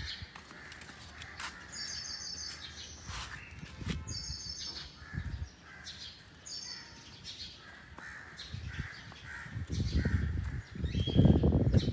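Birds chirping: a high, quick call repeated every two to three seconds among fainter chirps, with a louder low rumble coming in near the end.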